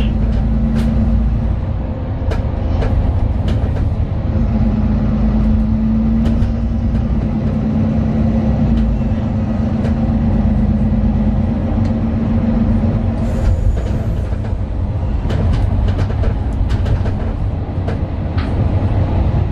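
Cabin sound of a Mercedes-Benz Citaro 2 city bus running, its OM 936 six-cylinder diesel and ZF Ecolife automatic transmission giving a steady low rumble and drone, with scattered clicks and rattles from the interior.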